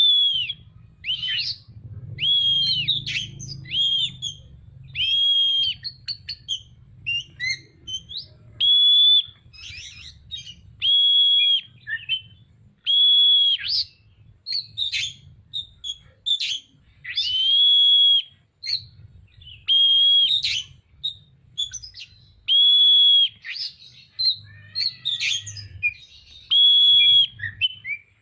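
Oriental magpie-robin (kacer) singing: long, clear whistled notes held at one steady pitch, repeated every second or two and mixed with short chirps and scratchy notes.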